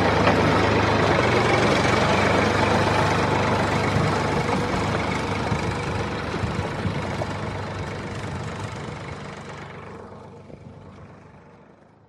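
Tractor engine running steadily, then fading away over the second half until it is gone just before the end.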